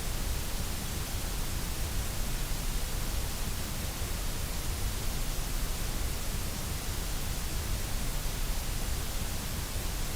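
Steady electronic white noise: an unbroken, even hiss that does not change.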